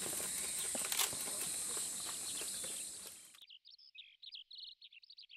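An outdoor recording with a steady high-pitched hiss and scattered clicks cuts off abruptly about three and a half seconds in. A rapid series of short, high bird chirps follows.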